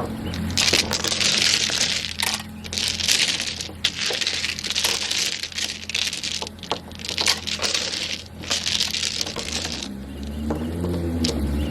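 Mahjong tiles being shuffled by hand on a table: a continuous clatter of many hard tiles clicking and sliding against each other.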